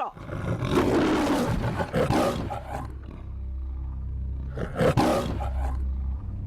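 A loud, noisy roar that swells and fades over about three seconds, then a second shorter burst about five seconds in, over a steady low rumble.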